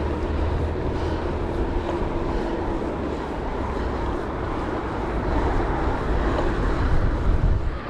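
Steady, loud wind rumble on an action-camera microphone mixed with tyre and road noise from a gravel bike riding at speed.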